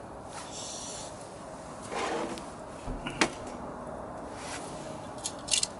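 Handling sounds while tending a campfire: a short rustle about two seconds in, a sharp knock a second later, and a quick cluster of clicks near the end.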